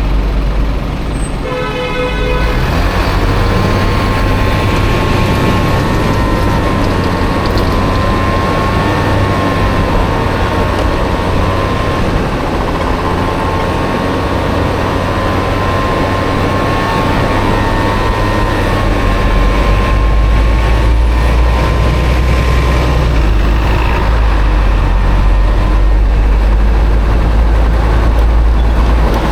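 Engine-swapped Honda Motocompo with a Honda Dio engine running as it is ridden through city traffic, its pitch wavering up and down with speed over a constant low rumble. A short horn toot sounds about two seconds in, and the low rumble gets heavier about twenty seconds in.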